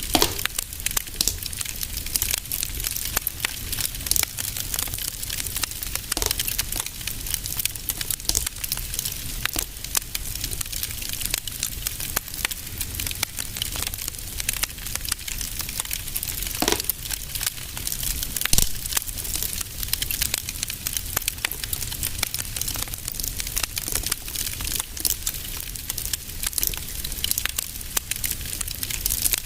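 Fireplace fire crackling steadily: a dense patter of small crackles over a low rumble, with a few louder pops scattered through.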